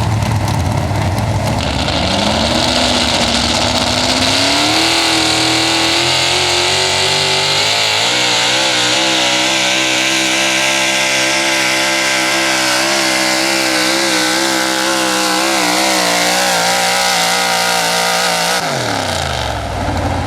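Big-block engine of a high-output pulling truck at full throttle during a pull. It revs up over a few seconds and holds at high revs for about thirteen seconds. Near the end the revs drop sharply back to idle as the pull finishes.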